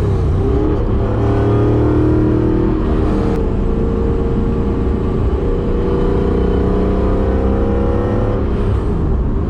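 Supercharged BMW S62 4.9-litre V8 with a straight-piped exhaust, heard from inside the car, pulling hard under acceleration. The engine note climbs, breaks about three seconds in, then climbs again for several seconds before falling away near the end.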